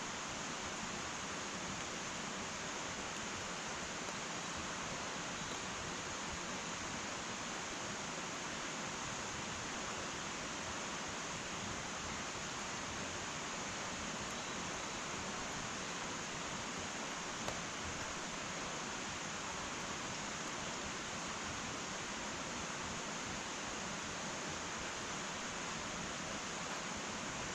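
Wood fire burning in an irori sunken hearth: a steady hiss with a faint pop or two.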